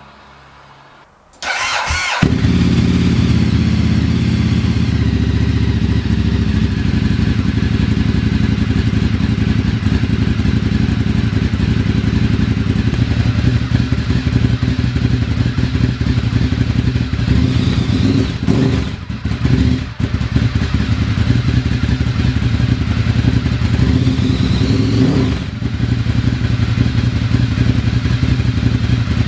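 Ducati Monster 1100 Evo's air-cooled L-twin cranked on the starter and catching about two seconds in, then idling loud and lumpy through Termignoni slip-on exhausts with dB-killers fitted. The engine sound changes briefly twice, past the middle and again a few seconds later, then settles back to idle.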